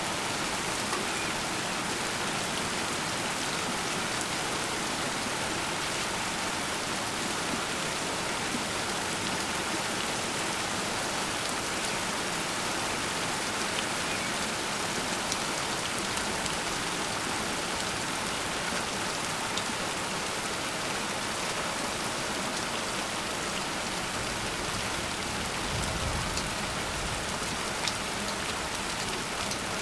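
Heavy rain falling steadily in a thunderstorm downpour, a dense even hiss with scattered drop ticks. A brief low rumble comes near the end.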